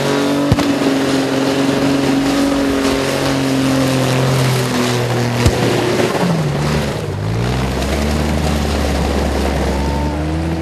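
Twin-turbo V6 engine held at steady high revs over a loud hiss, with two sharp bangs, about half a second in and about five and a half seconds in. Past the middle the revs dip and climb back up.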